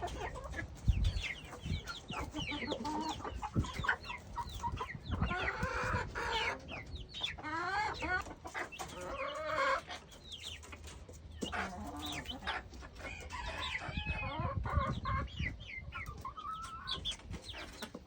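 Backyard hens clucking and calling over one another as they feed, with scattered short taps.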